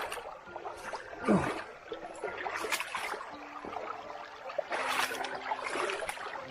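Shallow stream water trickling, broken by several short splashes.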